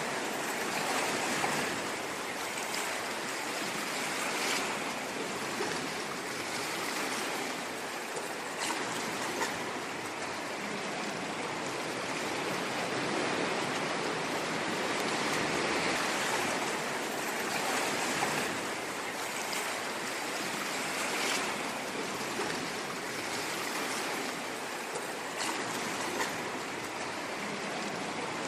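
Ocean waves washing in: a continuous rush of surf that swells and eases gently every few seconds.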